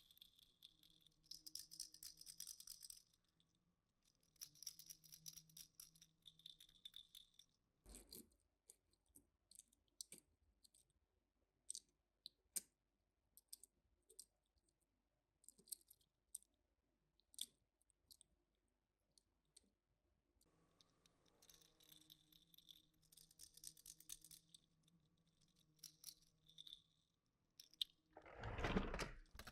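Faint handling noises of small objects and packaging: scattered light clicks and short rustles, with one louder rustle near the end.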